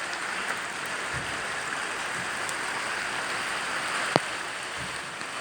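Steady rain falling, an even hiss, with one sharp tap about four seconds in.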